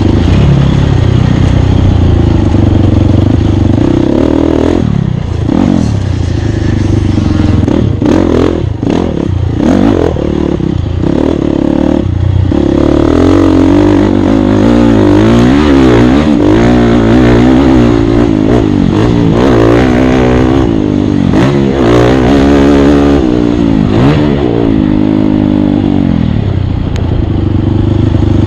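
Off-road dirt bike engine revving hard and easing off over rough ground, with quick throttle blips and brief cuts in the first half, then a constantly rising and falling pitch as the rider works the throttle.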